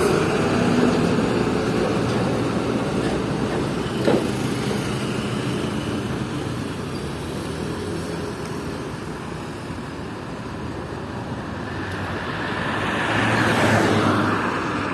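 Hino FL 260 JT truck's diesel engine running under way with steady road noise. One short knock comes about 4 seconds in, and the noise swells louder near the end.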